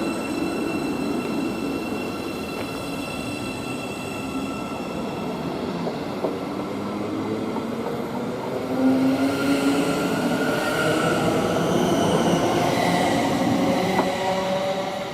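Class 717 Siemens Desiro City electric multiple unit pulling away from the station. Its traction motors give a whine of several tones that climb in pitch as it accelerates, growing louder from about eight seconds in. A couple of sharp clicks sound from the wheels on the track, and the noise starts to fade at the end.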